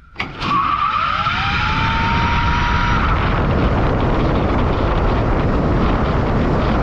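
Autocycle accelerating hard and running past at full throttle: a whine rises in pitch over the first three seconds, then gives way to a loud, steady rush of engine and road noise.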